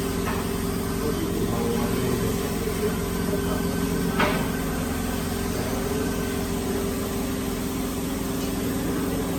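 Steady hum of a running electric machine motor, with one short sharp clink about four seconds in.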